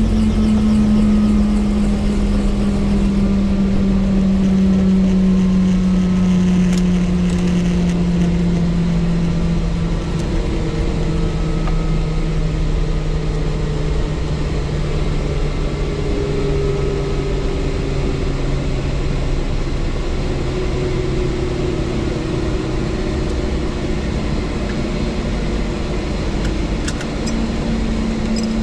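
Helicopter engine and rotor running steadily. A low hum sinks slowly in pitch over the first dozen seconds and climbs back near the end.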